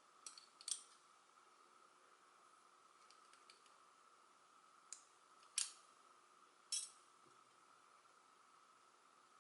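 Pieces of a Hanayama Enigma cast metal puzzle clicking against each other as it is worked apart by hand: about six short, sharp clicks scattered through, the loudest a little past halfway, over a faint steady hum.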